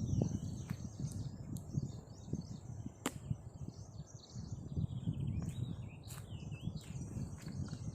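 Birds chirping and warbling, with many short, quick calls over a steady low rumble. A sharp click comes about three seconds in, and a few fainter ones follow later.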